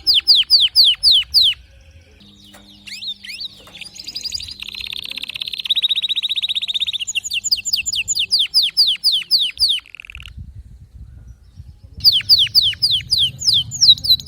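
Domestic canary singing: runs of rapid, repeated down-slurred whistled notes, a fast buzzy trill in the middle, and two short pauses.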